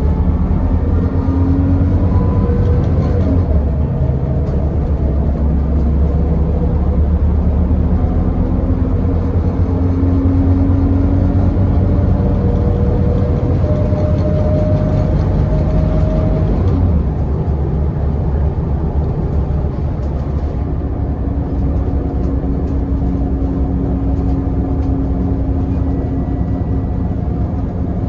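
Scania L94UB bus diesel engine and drivetrain running under way, with a steady low rumble and whining tones that climb and shift as it pulls through its gears. The sound eases a little about two-thirds of the way through.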